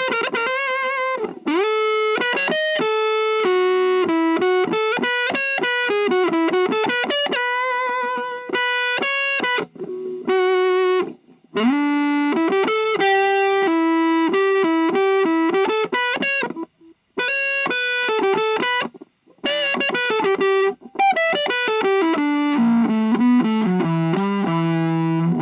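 Electric guitar (Chapman ML3 Modern) through a VOX Lil Night Train 2-watt all-tube amp on its higher-gain thick voice, playing single-note lead lines with slides and bends and a few brief pauses. It moves to lower chords near the end.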